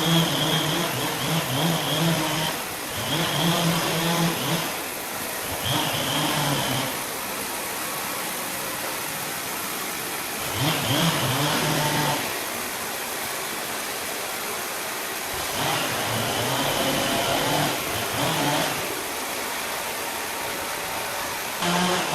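Chainsaw engine running, alternating between stretches at high revs and quieter dips, revving back up several times.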